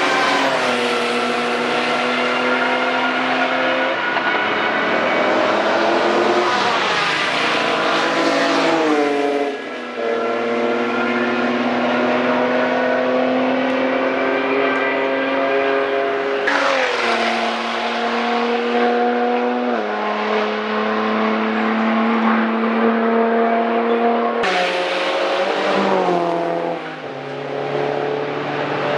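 Vehicles lapping a race track at speed, one after another, their engines running at high revs. Each engine note holds high, then drops sharply as the vehicle goes past or shifts, about four times in the stretch.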